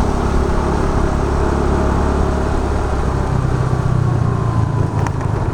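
Scooter engine running on the move, with steady road noise; its low hum shifts in pitch about three seconds in.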